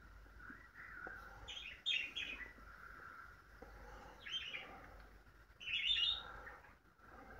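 Small songbirds chirping in short clusters of quick high notes, three bursts, the loudest about six seconds in, over a faint steady tone.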